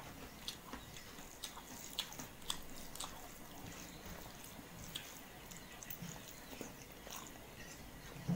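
A person chewing food close to the microphone, with scattered soft mouth clicks and smacks.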